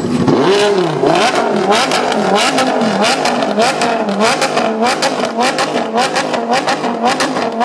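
Lamborghini Gallardo Super Trofeo racecar's V10 engine revved hard at a standstill in quick, repeated blips, pitch rising and falling about every half second, with sharp cracks between the blips. Very loud.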